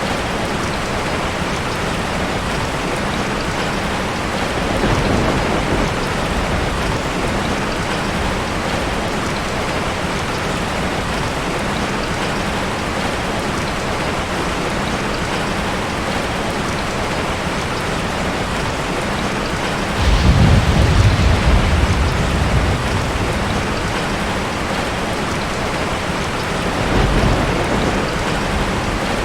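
Heavy rain falling steadily on a tin roof, with rolls of thunder: a short rumble about five seconds in, a louder one that breaks out about twenty seconds in and fades over a few seconds, and a smaller one near the end.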